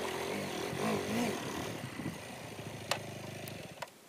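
Motorcycle engine running, its pitch wavering up and down at first, then holding a steady low note that fades near the end, with a couple of sharp clicks.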